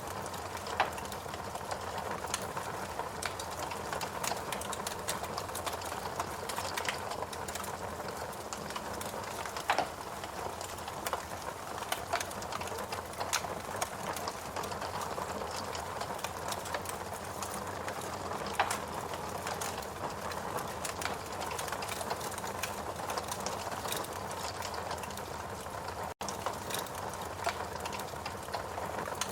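Wood fire crackling in a fireplace: a steady run of small crackles over a soft hiss, with a few louder pops scattered through.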